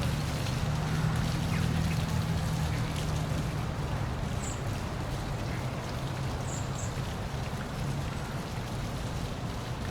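Small park waterfall, water pouring and splashing in a steady rush with a low steady rumble beneath it. A few faint, short high chirps come through about halfway.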